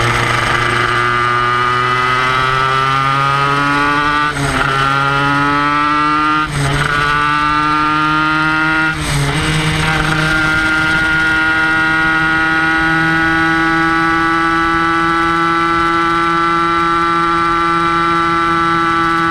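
Kreidler Van Veen 50cc two-stroke racing engine screaming at high revs, heard from onboard. The note climbs, breaks briefly three times at the gear changes, then holds steady and high.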